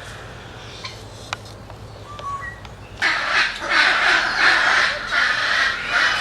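Quiet with a few faint clicks, then about three seconds in a loud, harsh screeching of many animals calling at once starts suddenly and keeps going.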